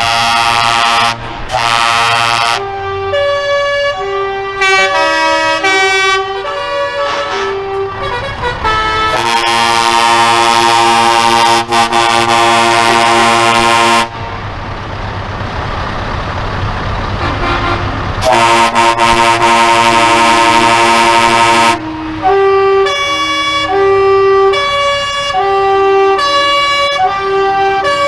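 Truck air horns: a musical multi-note horn playing a tune in short stepped notes, broken by two long, loud blasts of several horn tones sounding together, each held about four seconds.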